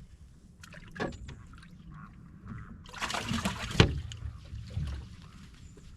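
Water splashing and sloshing around a small boat, with scattered small clicks and a sharp knock about four seconds in.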